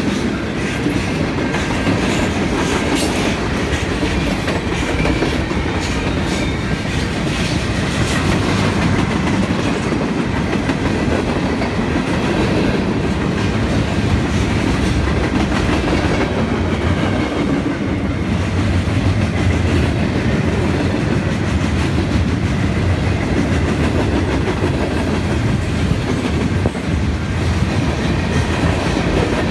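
Cars of a mixed freight train rolling steadily past close by: tank cars, gondolas and covered hoppers. Their steel wheels make a continuous noise on the rail and a clickety-clack over the rail joints, with the clicks sharpest in the first several seconds.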